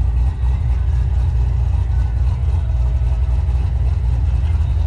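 Car engine running steadily, a deep continuous rumble with no change in pitch.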